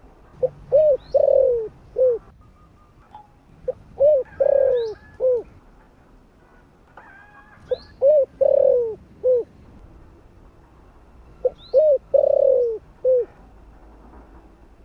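Spotted dove cooing: four phrases, each a couple of short coos, a longer drawn-out coo and a final short coo, repeated about every four seconds. Brief high chirps come between the phrases.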